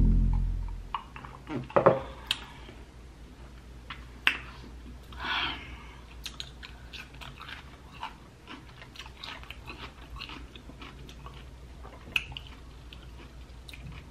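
Close-miked mouth sounds of a person eating sushi rolls: wet chewing with scattered soft clicks and smacks, after a sip of wine near the start. A loud ringing tone fades out in the first second.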